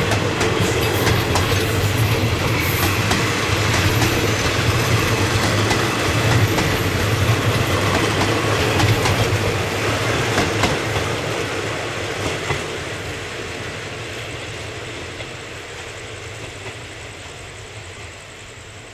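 Passenger train rolling past with wheels clicking over the rail joints over a steady low hum, fading steadily in the second half as it moves away.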